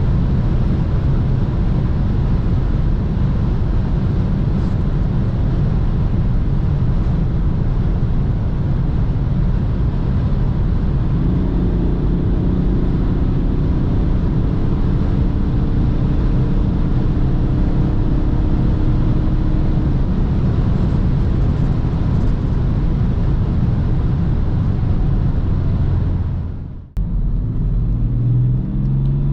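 BMW 330d's straight-six diesel and the road and wind noise of the car at high speed, a steady dense rumble. Near the end the sound drops out for a moment, then the engine note rises as the car accelerates.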